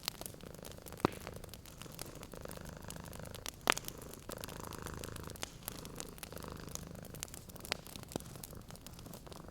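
A cat purring steadily with a low, pulsing rumble, over a wood fire crackling with sharp scattered pops; the loudest pop comes a little under four seconds in.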